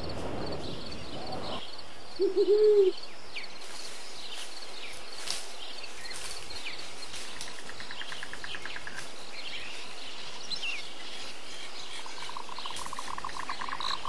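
Birds calling in a tree: a short loud run of low arched notes about two seconds in, over scattered small high chirps and a couple of fast trills.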